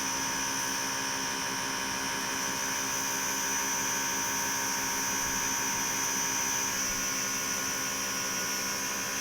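A small electric motor running steadily with a high-pitched whine.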